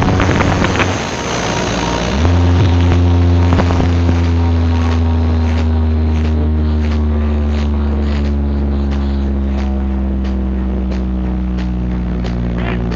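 Large carnival sound system playing a loud, deep held bass tone with overtones. It breaks off briefly near the start, slides up in pitch at about two seconds and then holds steady.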